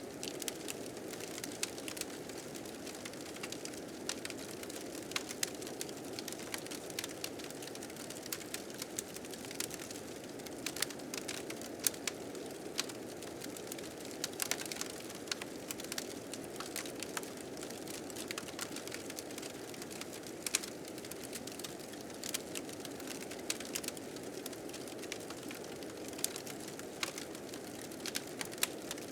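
Wood fire crackling with frequent irregular sharp pops, over the steady rushing of blizzard wind.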